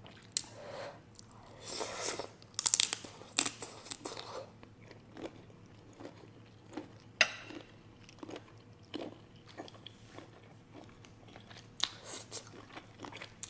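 A person biting and chewing a cooked prawn, with a run of crunchy bites about two to four seconds in, then slower chewing with scattered small mouth clicks and smacks.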